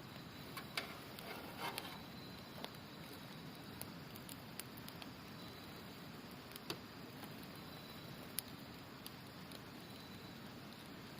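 Campfire crackling, with a few sharp pops of burning wood, over a steady rush of river water and a faint high trill of autumn insects.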